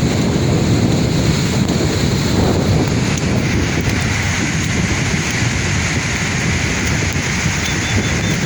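Sea waves washing steadily on the shore, with wind blowing across the microphone.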